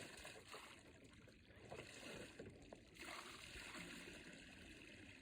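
Near silence: a faint steady hiss of flowing river water.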